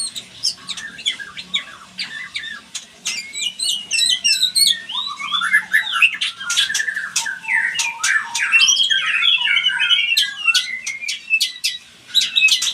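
White-rumped shamas (murai batu) calling: a rapid, varied run of sharp clicks and chirps mixed with sliding, warbled notes, busiest through the middle.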